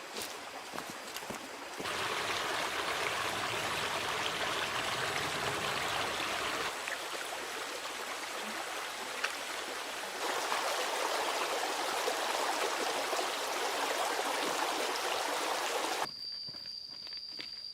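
Steady rushing water noise that gets louder abruptly twice and then cuts off suddenly, leaving a quieter background with a steady high-pitched tone and a few clicks.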